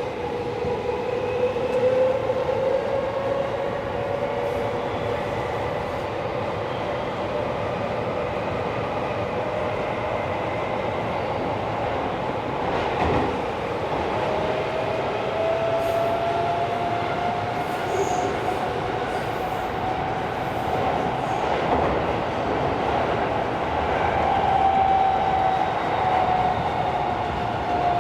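Tokyo Metro 16000 series subway car running between stations, heard from inside the car: a steady rumble of wheels on rail with occasional faint knocks, and a whining tone that slowly climbs in pitch and eases slightly near the end.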